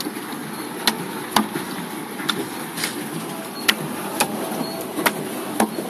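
Pedal-driven paddle boat under way: a steady churning wash, with a regular pair of sharp clicks from the pedal drive about every second and a half.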